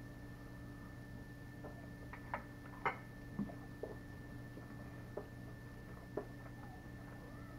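Someone quietly chewing a bite of fried Spam: a handful of soft, short mouth clicks and smacks spread across a few seconds, over a faint steady hum.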